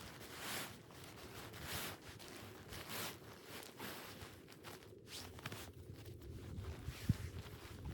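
Footsteps crunching through snow, about one step a second, with a couple of dull low thuds near the end.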